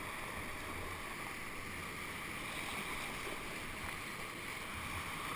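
Steady rush of whitewater flowing through a man-made whitewater channel, an even hiss with no separate splashes.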